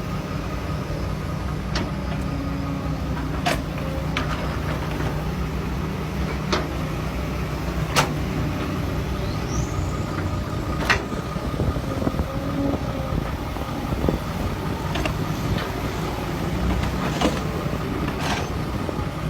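Heavy diesel truck engine running with a steady low drone, with short sharp clicks here and there.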